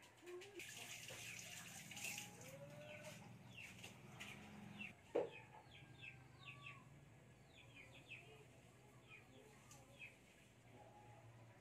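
Faint bird calls in the background: a run of short chirps and a few gliding calls over a low steady hum, with one louder short call about five seconds in.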